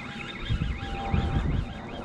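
Wind buffeting the microphone in loud low gusts about half a second to a second and a half in. Under it, a faint tone warbles rapidly up and down several times a second.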